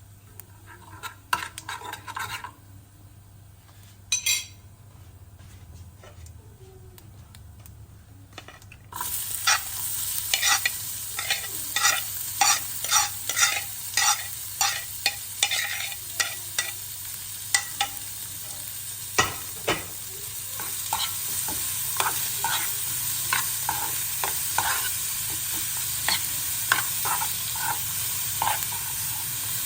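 Food frying in hot oil in a pan. The sizzling starts suddenly about nine seconds in and runs steadily, with repeated sharp clicks of a utensil against the pan; before that there are only a few quieter clicks and knocks.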